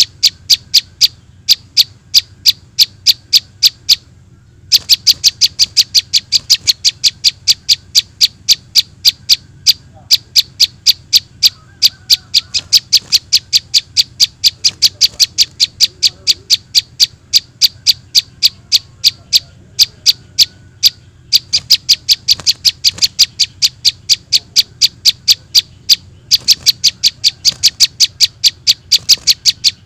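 Juvenile prinia (prenjak) calls played back as a bird lure: a rapid, steady series of short, high, sharp chirps, about four a second, broken by a few short pauses.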